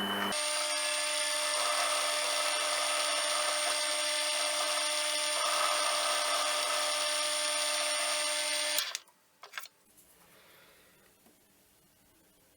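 Electric machine-tool motor running at a steady high speed with a whine, then switching off about nine seconds in. A couple of faint clicks follow.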